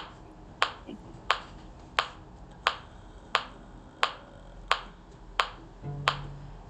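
Metronome clicking steadily, about three clicks every two seconds, with a brief voice just before the end.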